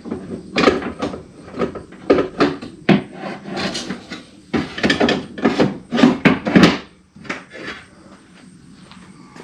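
Repeated clunks, knocks and scraping as a power window regulator assembly is worked around inside a truck's door shell, its plastic guide block being pushed into the slide rail on the bottom of the window glass. The knocking is dense for about seven seconds, then softer.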